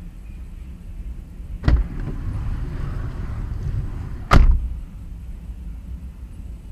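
Low rumble of a passing double-stack container train, with two sharp thumps about two and a half seconds apart, the second the louder.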